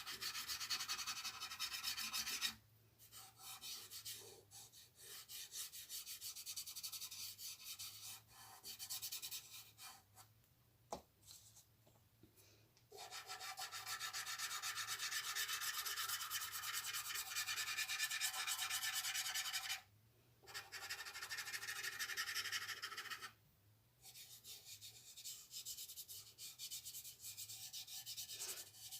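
A drawing tool rubbing on paper in quick back-and-forth shading strokes. The strokes come in several runs broken by short pauses, the longest about ten seconds in.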